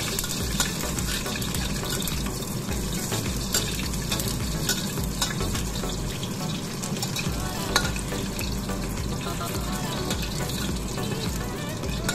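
Sliced shallots and garlic sizzling in hot oil in a steel wok, stirred with a metal spatula that scrapes and clinks against the pan now and then.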